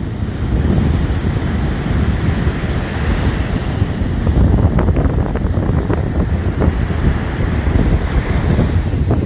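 Surf washing on a shore, swelling twice, with wind buffeting the microphone in a constant low rumble.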